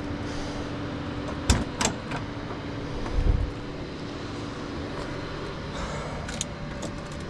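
Mechanical handling noises from a car: two sharp clicks about a second and a half in, a dull thump a little after three seconds, and a few light clicks near the end, over a steady low hum.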